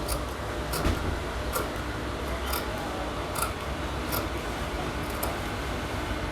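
Tailor's scissors cutting blouse fabric, a sharp snip about once a second over a steady low hum.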